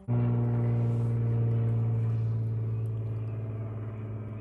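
Game-drive vehicle's engine starting abruptly and running steadily at one pitch, easing slightly in level after a couple of seconds.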